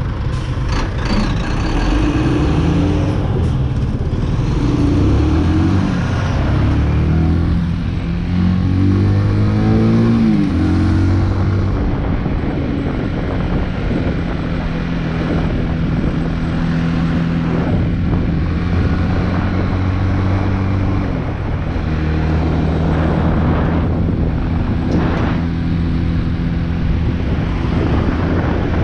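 Big Boy SuperLight 200cc motorcycle engine running on the move. Its pitch climbs several times as it accelerates through the gears, then holds steady at cruising speed, with a brief drop about two-thirds of the way in as it shifts.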